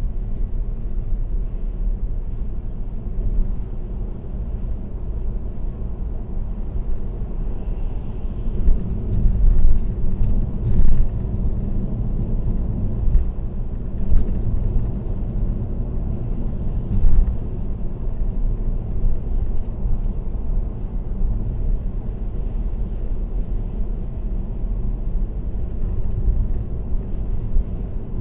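Steady low rumble of road noise from a car driving on an expressway, with a few brief louder knocks about ten, fourteen and seventeen seconds in.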